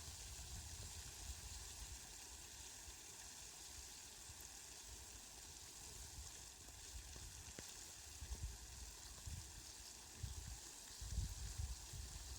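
Rain falling, a faint, steady hiss, with irregular low rumbles now and then, more of them near the end.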